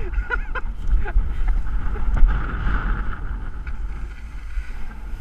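Wind buffeting the microphone over a steady hiss of snow scraping under someone glissading down the slope, with a couple of short shouts in the first second or so.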